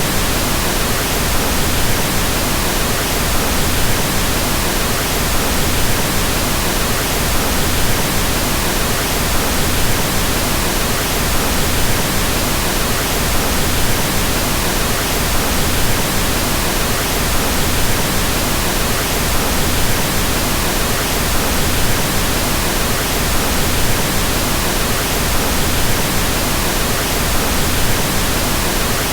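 Steady pink noise: an even, featureless hiss with more weight in the low end than white noise, unchanging throughout.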